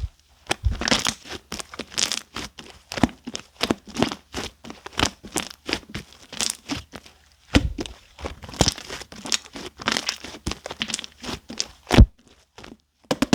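Clear slime mixed with shaving foam being squished and stretched by hand, giving a quick, irregular run of sticky crackles and popping clicks, with a couple of heavier squelching slaps.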